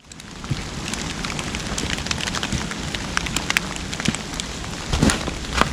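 Heavy rain falling in woodland, a dense pattering of drops hitting close surfaces with many sharp individual taps. It fades in at the start, with a few heavier low thumps near the end.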